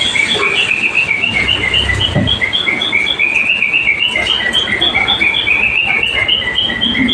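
Birds chirping continuously in quick short high notes, many a second, with the notes stepping between two pitches.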